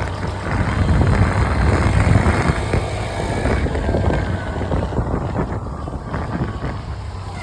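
Wind buffeting the microphone and road noise while riding a two-wheeler through traffic, loudest a second or two in.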